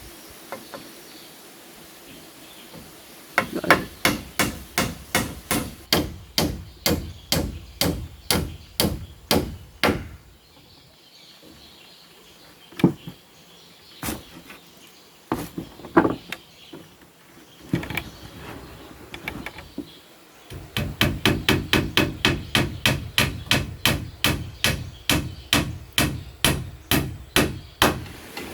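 Hammer striking wood in steady runs of about three to four blows a second: one run of about six seconds, a few scattered blows, then a longer, quicker run near the end.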